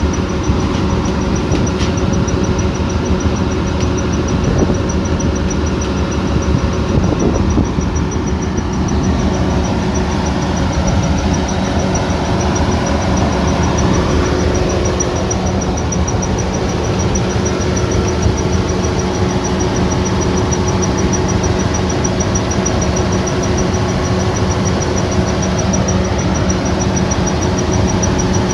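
Kubota combine harvester's diesel engine running steadily under load: a constant drone with a faint high-pitched whine over it.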